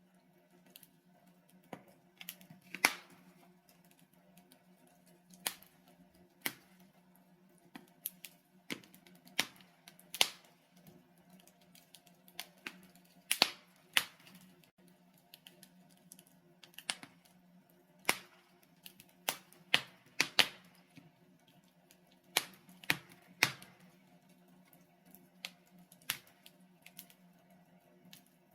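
Logs burning in a fireplace, crackling with irregular sharp pops and snaps, a handful of them much louder, over a faint steady low hum.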